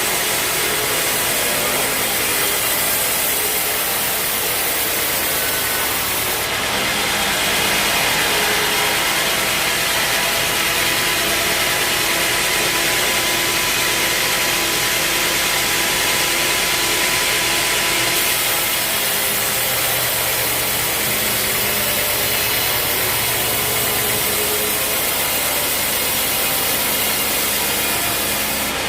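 Sawmill running steadily: an engine-like hum under a hiss of sawing, as a teak log is cut. From about six seconds in until past halfway the hiss turns brighter, then settles back.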